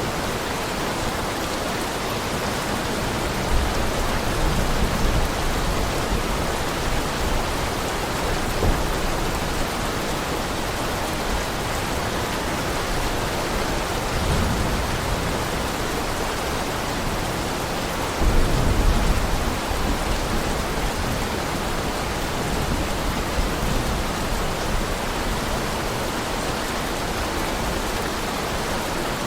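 Heavy rain falling in a steady hiss, with low rumbles of thunder swelling three times, the strongest a little past the middle.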